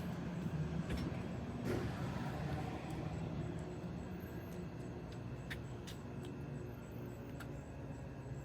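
Hydraulic elevator machine running with a steady low hum that slowly fades, with a few faint clicks.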